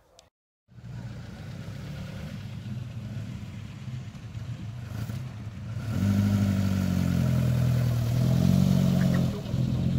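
A 1970s coupe's engine running as the car drives slowly past close by, starting after a brief silence and getting clearly louder about six seconds in, with a short dip near the end.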